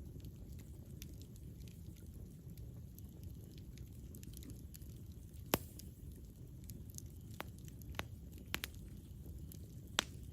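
Campfire burning with a steady low rumble and scattered sharp crackles and pops from the burning wood, the loudest pop about halfway through and a few more near the end.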